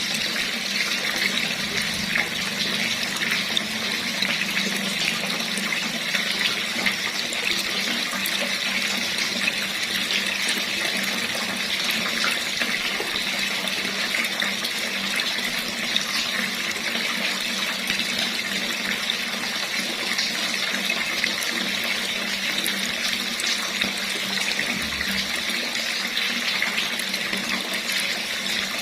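Water running steadily from a tap, a constant splashing rush.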